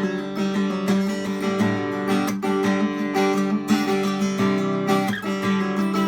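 Acoustic guitar strummed in a steady, rhythmic chord pattern.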